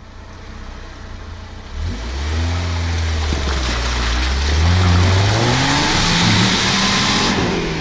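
Off-road 4x4's engine idling, then revving hard about two seconds in as the driver tries to take a hump with momentum, the pitch rising and falling. A loud hissing rush runs over the engine for several seconds and stops shortly before the end.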